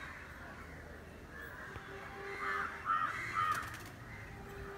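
Birds calling: three short calls in quick succession a little past halfway, over a low steady background.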